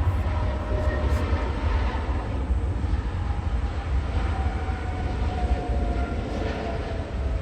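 Jet airliner engines at takeoff power during departure, a loud steady deep rumble with faint whining tones falling slowly in pitch.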